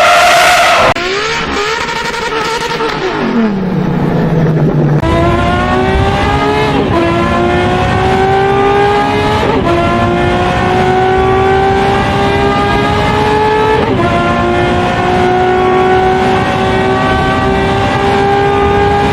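V12 supercar engine, first heard at high revs and cut short. The revs then drop and hold low briefly before the car accelerates hard through the gears: long, steadily rising pulls, broken by three quick upshifts a few seconds apart.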